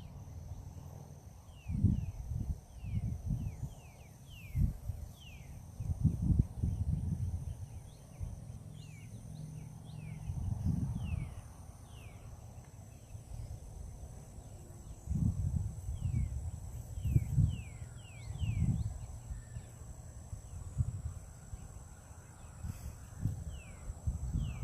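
Wind buffeting the microphone in irregular low gusts, while a bird calls in runs of quick, descending chirps.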